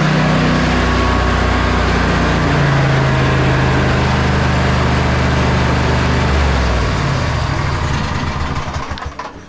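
Sabre by John Deere lawn tractor's two-cylinder engine running steadily, its speed shifting a couple of times, then fading out near the end. It is running well, with the carburetor no longer flooding now that the bowl gasket has been replaced.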